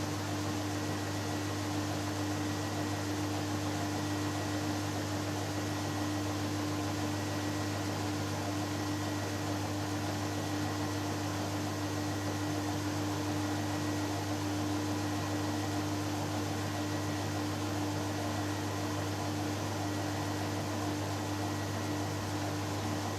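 Hoover Dynamic Next washing machine running in the first interim spin phase of its All in One 20 cycle: a steady hum with a constant tone and no change in speed.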